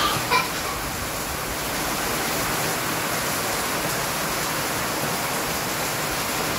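Steady rain falling in large drops, an even hiss with no let-up.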